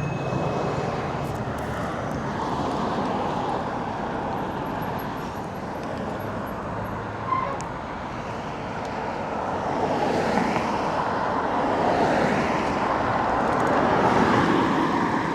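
Street traffic and road noise heard while cycling along a road, swelling for a few seconds about ten seconds in. At the very start a bicycle bell's ring fades out.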